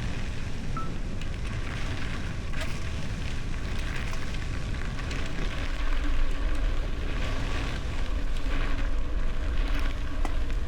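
Wind rushing over the microphone of a moving bicycle, with steady crackling tyre noise and scattered small clicks from riding a rough gravel surface.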